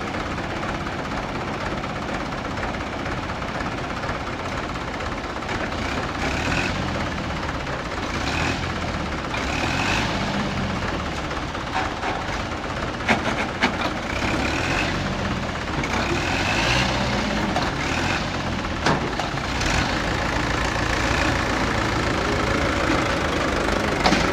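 Heavy diesel engine running steadily, with a few short rising whines and several sharp clanks in the second half.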